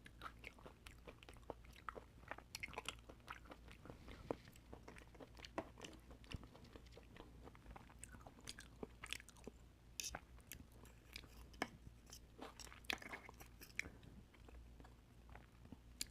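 Close-miked eating sounds of a person chewing and biting oysters: many short, irregular wet clicks and crackles, bunched into flurries of chewing, over a faint low hum.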